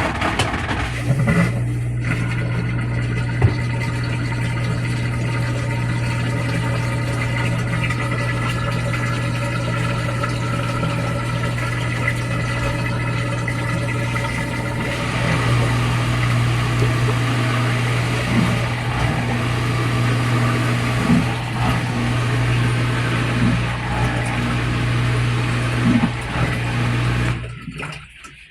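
Washer drain pump of a GE Spacemaker laundry center running steadily at the start of the final drain, a strong low hum under the rush of water being pumped out. It starts sharply and cuts off about a second before the end.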